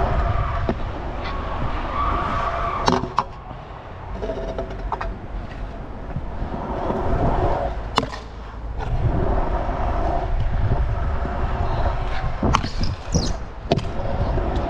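Stunt scooter wheels rolling over skatepark concrete in a steady rumble, with several sharp clacks of landings and deck hits.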